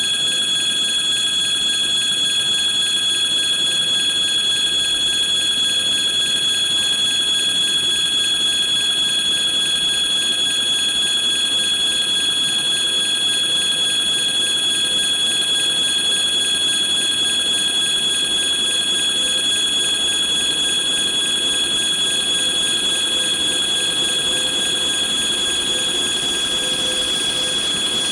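Freight train behind a VL80S electric locomotive approaching on the rails, heard as a steady high-pitched ringing whine of several tones. A rushing noise builds near the end as the train draws closer.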